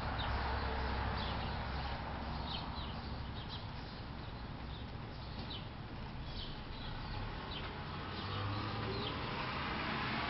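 Small birds chirping intermittently, short high calls scattered irregularly, over a steady background hiss and low rumble.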